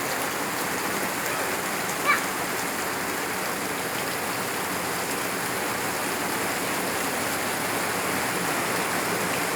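Heavy tropical rain falling steadily, a dense even hiss. There is one brief sharp sound about two seconds in.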